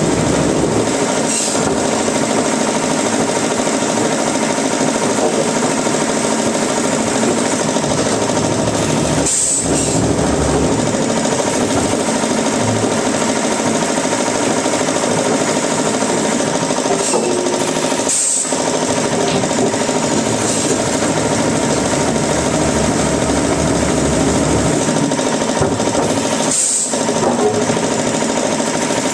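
Woodworking machinery running steadily with a dense, even mechanical noise and a few steady tones, dipping briefly about every eight or nine seconds.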